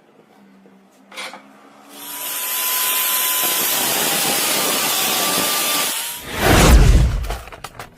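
A power tool cutting or grinding at a steady pitch for about four seconds, then a loud low thud near the end.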